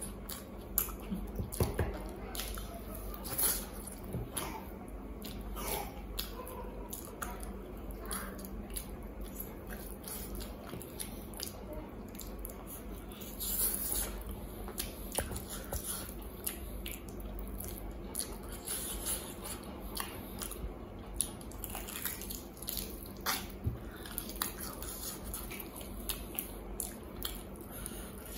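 Wet chewing and lip-smacking of a man eating mutton curry and rice by hand, with many short, irregular sticky clicks and squelches.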